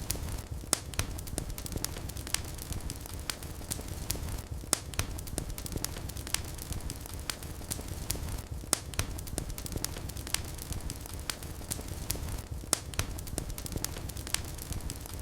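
Wood fire burning in a fireplace: a steady low rumble of the flames with sharp, irregular crackles and pops.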